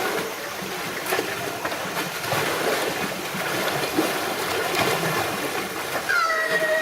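Water sloshing and splashing in a sea lion pool, with faint voices of onlookers underneath and a short high-pitched call near the end.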